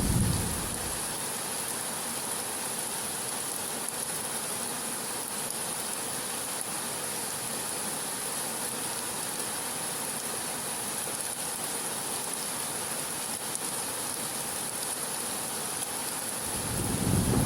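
Steady heavy rain, an even hiss with no low rumble. A low rumble of thunder dies away just after the start, and another begins to swell near the end.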